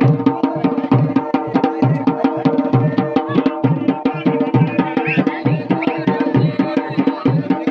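Dhol and damau, the Garhwali folk drum pair, played together in a fast, dense rhythm of sharp strokes, with deeper bass beats recurring under them.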